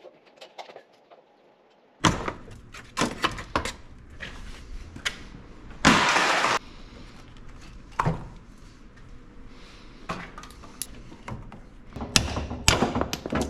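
Clanks, clicks and knocks of hand tools and metal parts during work in a car's engine bay, with a short rush of hissing noise about six seconds in. The first two seconds are nearly silent before the clatter starts suddenly.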